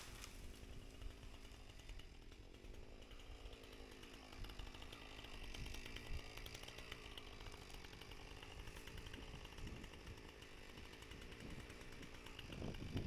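Husqvarna 455 Rancher two-stroke chainsaw running steadily, faint, its engine giving a fast, even buzz.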